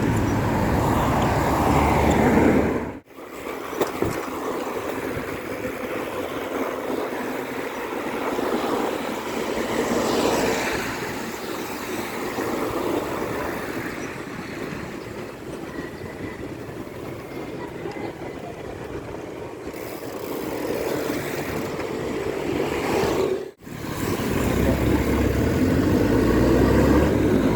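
Road traffic from passing motor vehicles on a busy city street, a steady rush of noise with a heavier low rumble at the start and end. The sound drops out abruptly for a moment twice, about 3 seconds in and near the end.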